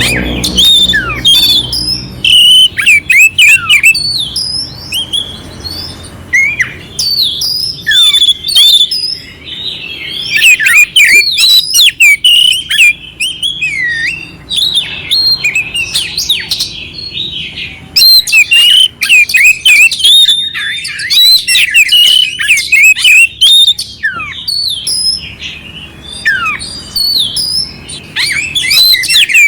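Oriental magpie-robin (kacer) singing a loud, fast, varied song of clear whistles mixed with harsh, rough fill-in notes, delivered in bursts with short pauses between them.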